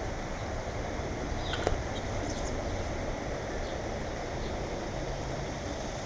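Steady low rumbling background noise with a few short, high bird chirps scattered through it, mostly around two seconds in, and one sharp tap just before two seconds.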